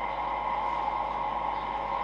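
Steady, unbroken drone of distant city traffic.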